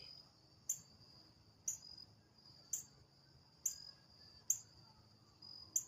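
Sharp, high chip notes about once a second, typical of a northern cardinal, over a steady high-pitched drone of crickets or other insects.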